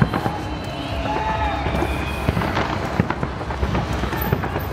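Fireworks salute going off: a series of sharp bangs at irregular intervals over a steady background din.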